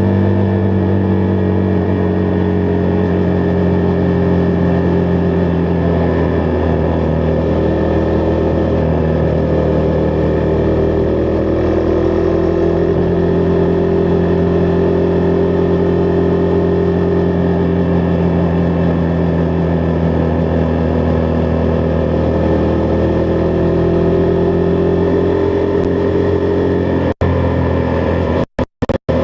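Husqvarna Vitpilen 401's single-cylinder engine running at steady cruising revs, its pitch drifting slowly up and down as road speed changes. Near the end the sound cuts out for split seconds a few times.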